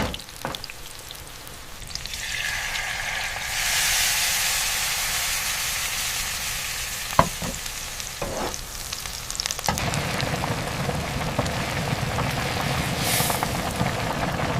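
Food frying and sizzling in a pan, the sizzle swelling a couple of seconds in and growing louder a little later, with a few sharp knocks. About ten seconds in, a deeper, fuller steady noise takes over.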